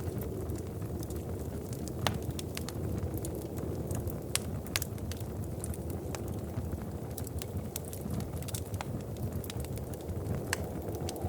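Wood fire crackling, with scattered sharp pops and snaps, a few louder than the rest, over a steady low rumble.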